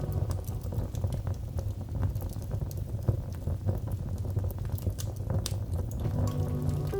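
Wood fire crackling: frequent irregular sharp pops and snaps over a low steady rumble.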